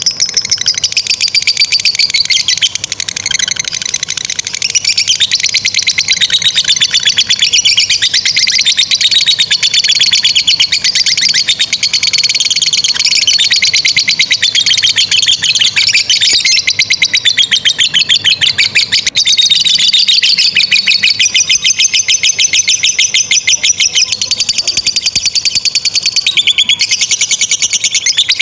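Lovebird in a long 'ngekek panjang' chatter: a shrill, very fast trill of repeated notes that runs almost without a break, its pitch sweeping up and down.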